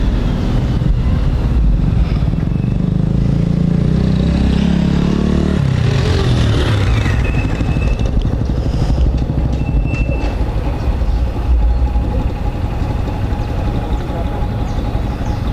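Motorcycle engine running on the move, picked up by a helmet-mounted camera along with wind and road noise; the engine note drops about five seconds in.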